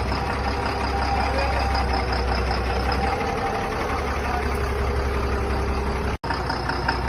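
Engine idling steadily, a truck-type engine sound, cutting out to silence for an instant about six seconds in.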